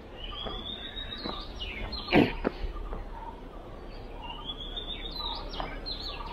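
Birds calling in the trees: two long rising whistles, one near the start and one about five seconds in, among shorter chirps, with a single sharp loud sound about two seconds in.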